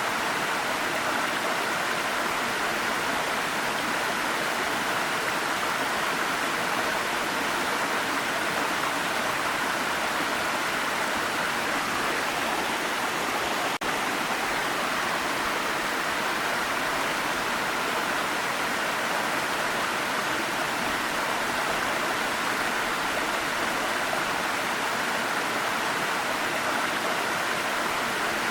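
Waterfall: a steady, even rush of falling water that dips for an instant about halfway through.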